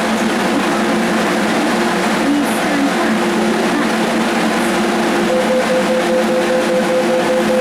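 MTR Tung Chung Line CAF electric train at the platform, running with a steady electrical hum of several held tones over a loud noisy rush. About five seconds in, a rapid pulsing beep joins it.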